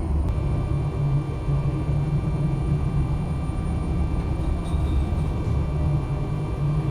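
Ashok Leyland truck engine and road noise while driving, a steady low rumble.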